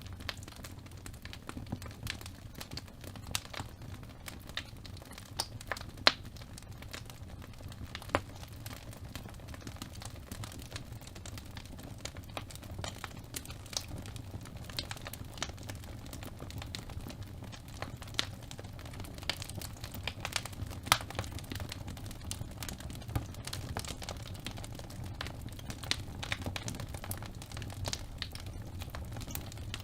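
Fire burning in a fireplace, crackling with scattered sharp pops, a few much louder than the rest, over a low steady rumble.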